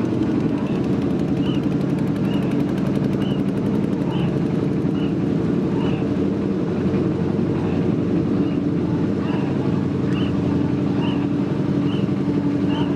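Motorboat engine running steadily, a low drone, with a faint high chirp repeating about once a second.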